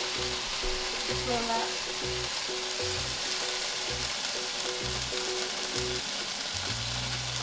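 Chicken and vegetable skewers sizzling steadily in hot oil in a frying pan, the water in the pan having cooked off. Background music plays.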